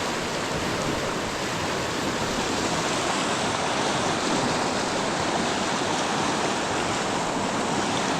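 A river running high after heavy rain, its water rushing with a steady roar.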